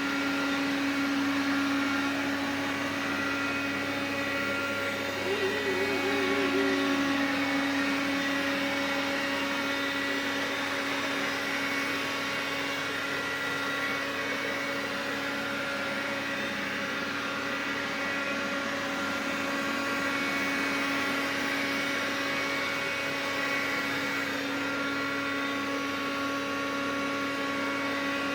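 Xiaomi vacuum cleaner running steadily with a constant hum and whine; this is the extraneous noise the owner is concerned about.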